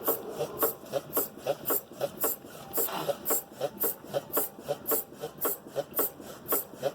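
Worn front stabilizer (sway bar) link on a 2011 Hyundai i30 knocking as the car body is rocked by hand, a steady rhythm of short knocks with a rasping edge about twice a second. The knock comes from play in the link, the source of the car's suspension noise.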